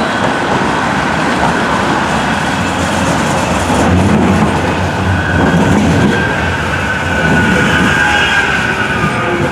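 Manchester Metrolink tram running on its rails, a steady rumble with a thin high whine from the wheels or motors that grows clearer in the second half.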